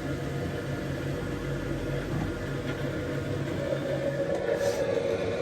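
Bambu X1 Carbon 3D printer running a print: a steady mechanical hum with a low tone pulsing on and off, and a higher steady tone that comes in a little past halfway as the motion changes.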